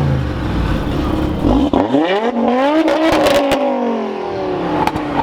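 A car engine accelerating hard: its pitch rises steeply for about a second and a half, then eases off and slowly falls, with a few sharp cracks in the middle and near the end.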